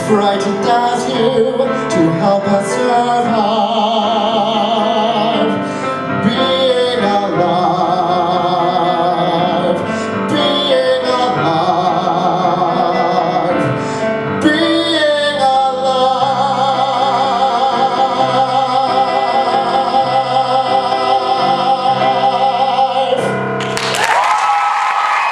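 A man singing a show tune with long held notes and vibrato over instrumental accompaniment, building to the song's end. About a second and a half before the end the music stops and applause breaks out.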